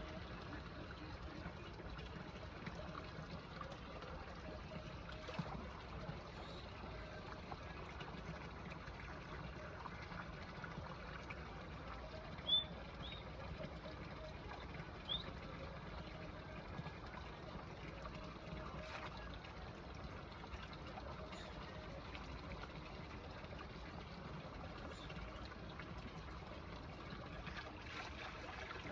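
Faint, steady trickle of running water. A sharp click about twelve seconds in, and two short high chirps just after it.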